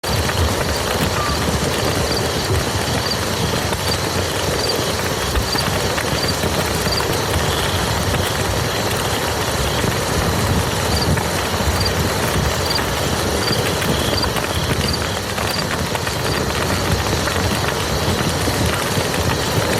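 Steady, heavy rain falling on a muddy field, a dense even hiss that begins abruptly.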